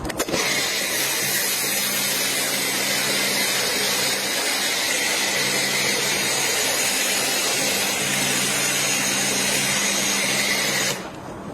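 Pressure washer sprayer jetting a steady high-pressure water spray, a loud hiss over the steady hum of the washer's pump motor. The spray shuts off suddenly near the end.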